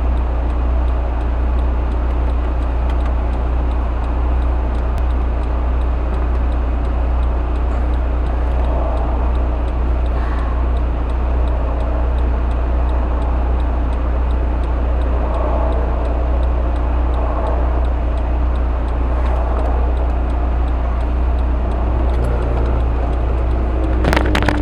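Honda S2000's inline-four engine and Milltek dual exhaust cruising at a steady highway speed, heard inside the cabin with the soft top up. The note stays steady over road and tyre noise, without drone, and a few clicks come near the end.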